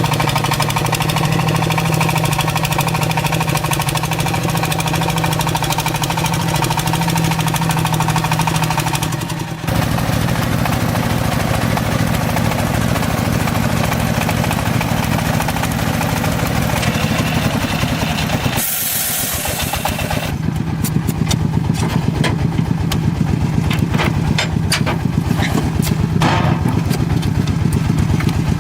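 An engine running steadily with a low hum, cut off briefly about ten and nineteen seconds in. Sharp clattering knocks are heard over it in the last third.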